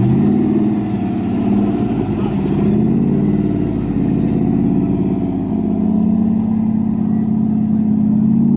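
A car engine revving: the pitch climbs sharply at the start, rises and falls, then holds steady near the end.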